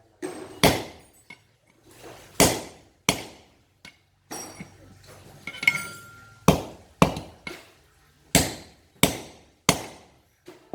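Hammer blows on steel, driving the pins out of a harvester's cutter bar to change its cutting blades: about eight sharp, ringing strikes at uneven intervals, with lighter metal clinking about halfway through.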